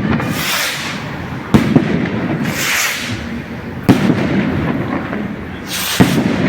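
Stick rockets (foguetes de vara) going off in a series: hissing rushes, each followed by a sharp bang, about four bangs in all.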